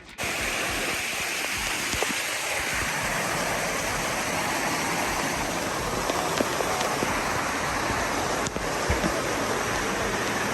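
Rushing water, a steady, even noise that starts abruptly and holds without letting up.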